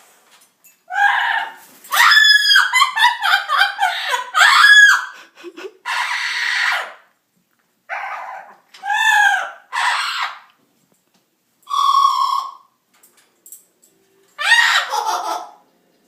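Yellow-naped Amazon parrots squawking and screeching at each other in a squabble. A dense run of loud shrieks comes from about a second in to about five seconds, followed by separate shorter calls, one of them a brief steady whistle-like note.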